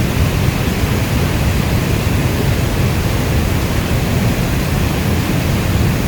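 Steady rainfall: an even, dense hiss weighted toward the low end, with no separate drops or thunder standing out.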